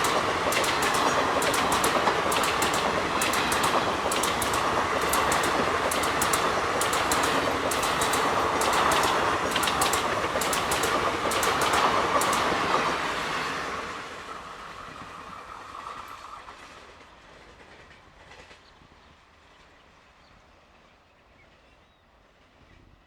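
Passenger train coaches rushing past at speed, wheels clattering in quick clicks over the rail joints. About 14 seconds in, the noise starts to fade away as the train recedes.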